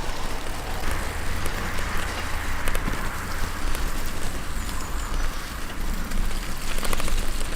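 Bicycle tyres running over a wet, muddy trail, a steady crackling hiss, with wind rumbling on the microphone and a cluster of rattling clicks near the end.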